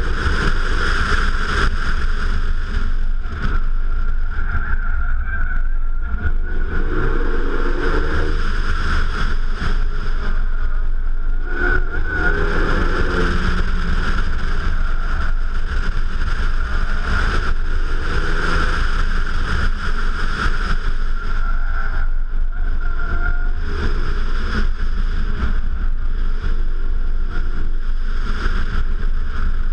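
Renault Mégane RS 265 Trophy's 2.0-litre turbocharged four-cylinder engine at speed, its note rising and falling over and over, under heavy wind buffeting on a camera mounted on the outside of the car.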